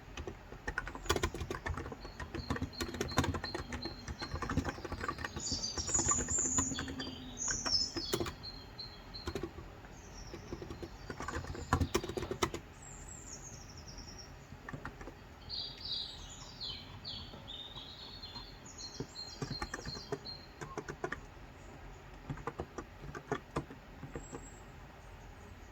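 Typing on a Cox Endeavor tenkeyless keyboard with 35 g contactless (electrostatic capacitive) switches: a rapid run of keystrokes through the first half, then scattered keystrokes. Small birds chirp at intervals throughout.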